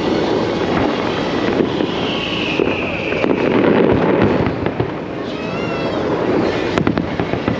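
Fireworks display bursting and crackling without a break, with a falling whistle about two seconds in and a wavering whistle near six seconds.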